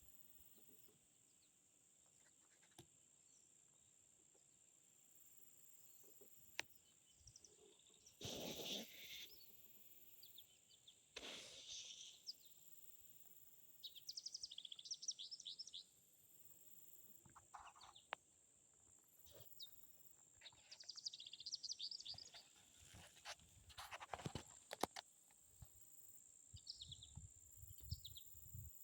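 Faint chirps and short rapid trills of small birds, on and off, with two louder swishes about eight and eleven seconds in.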